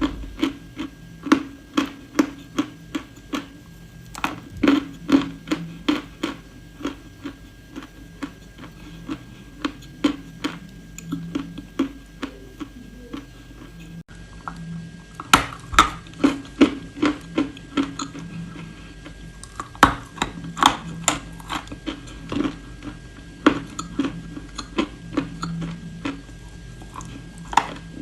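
Close-up crunching and chewing of brittle edible clay, a series of sharp crisp crunches coming irregularly about one to two a second, with a couple of short pauses.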